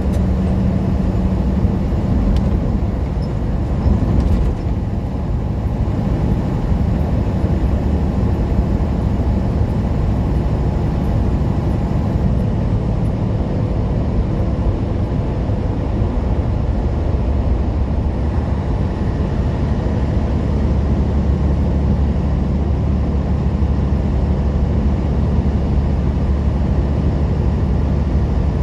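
Semi-truck diesel engine running steadily while driving, a constant low drone with road noise, heard from inside the cab.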